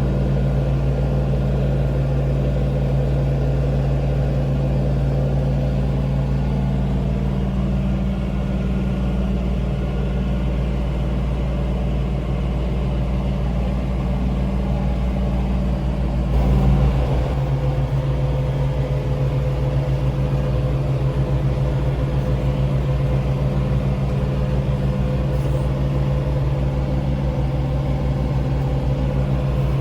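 2023 John Deere 3039R compact diesel tractor running steadily while mowing tall, wet grass with its 72-inch mid-mount deck. The engine drones evenly and swells briefly about halfway through.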